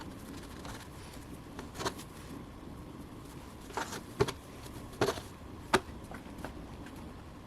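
A handful of short, sharp taps and clicks at irregular intervals, about five in all, over a faint steady hum: small objects being handled and set down.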